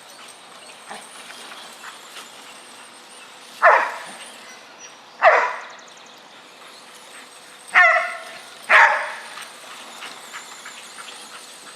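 A dog barking: four short single barks spread over several seconds, the third a higher, yelping one.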